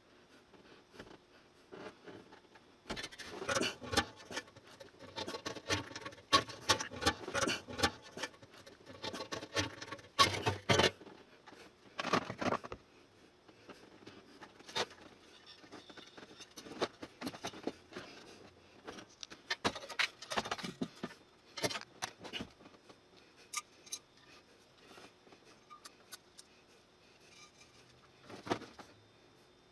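Irregular clicking, rattling and clattering of small metal parts and tools being handled, in bursts with quiet gaps, busiest in the first half.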